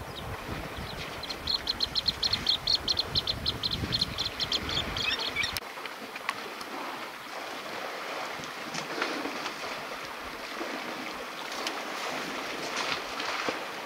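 A bird calling in a rapid run of sharp high notes, about six a second for some three and a half seconds, over the sloshing and splashing of elephants wading and bathing in water. A low wind rumble on the microphone cuts off abruptly about five and a half seconds in.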